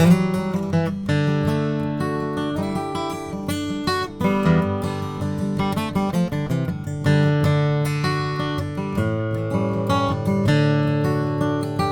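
Yamaha FG830 steel-string acoustic guitar playing a solo instrumental intro to a country tune: picked bass notes and strums in a steady rhythm, with no singing.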